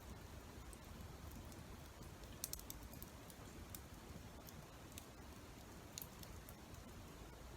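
Faint wood campfire crackling: scattered sharp pops and ticks, a quick cluster about two and a half seconds in, over a low steady background.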